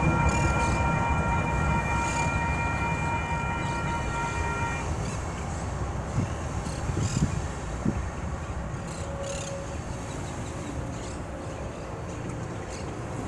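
Low rumble of a departing freight train fading away, with the crossing's electronic warning bells ringing until they cut off about five seconds in. A few short thumps follow.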